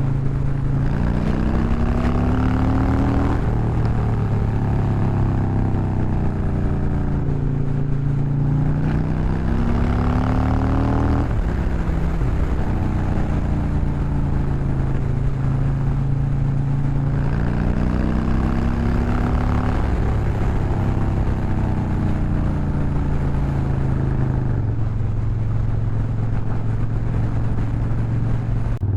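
Harley-Davidson V-twin motorcycle engine and exhaust under way, rising in pitch three times as the bike accelerates and falling back after each rise.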